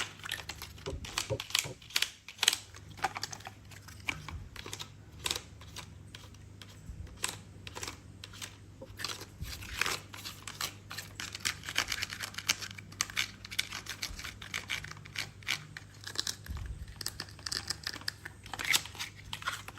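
Irregular small plastic clicks, taps and crinkling from hands handling toys and their packaging.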